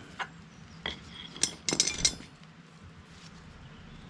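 Metal-on-metal clinks of hand tools against the backhoe's hydraulic fittings: a handful of sharp clinks in the first half, then quiet working.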